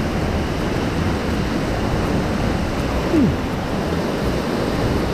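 Steady rush of heavy-flowing water from a waterfall and river. A brief falling tone cuts through about three seconds in.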